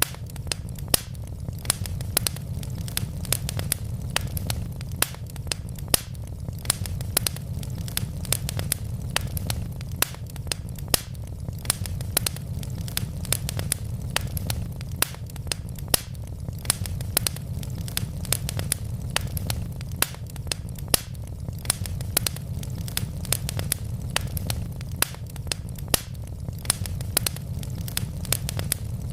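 Wood fire burning in a fireplace: logs crackling and popping with irregular sharp snaps, several a second, over a steady low rumble of the flames.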